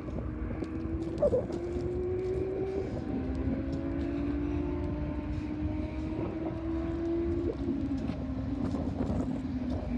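A steady engine drone whose pitch shifts slightly a few times, over a low rumble of wind.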